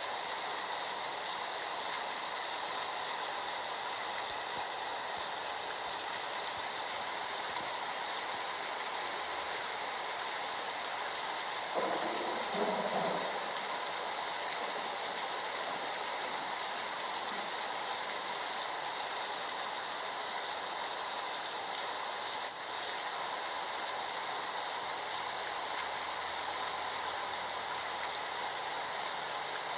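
Heavy rain falling in a steady, even hiss, with a brief louder sound about twelve seconds in.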